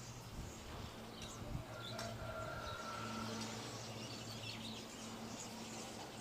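Outdoor ambience of birds chirping: many short, scattered chirps over a steady low hum.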